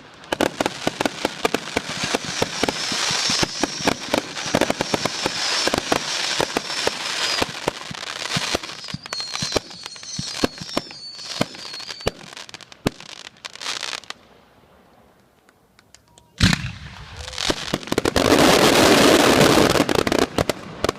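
Consumer fireworks going off: a rapid string of crackling reports with a faint high whistling for about 14 seconds. After a short lull comes a sharp bang, then a loud dense hissing crackle for a couple of seconds near the end.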